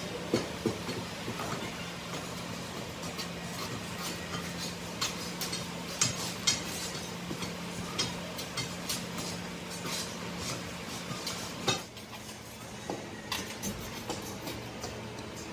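Scattered metal clanks and knocks over a steady machine hum; the hum stops about twelve seconds in.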